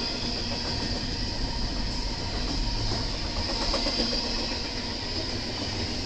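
BNSF intermodal freight train rolling past, a steady rumble of wheels on rail with a steady high-pitched hiss over it.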